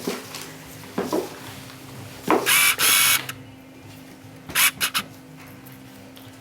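Harsh, screechy parrot squawks voiced for a parrot puppet: a short one at the start and about a second in, a long one lasting about a second just after two seconds in, then three quick squawks near the five-second mark.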